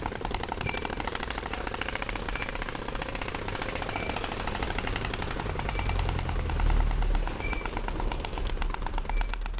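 A piece of cardboard flapping against the spokes of a moving bicycle wheel, making a rapid, continuous clatter that imitates a motorbike engine.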